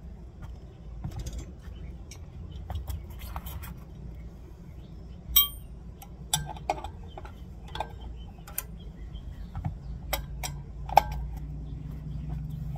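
Steel wrenches clinking and clicking against the hub's 17 mm sprocket nuts and bolts as they are broken loose, with scattered taps and one sharp ringing clink about five seconds in.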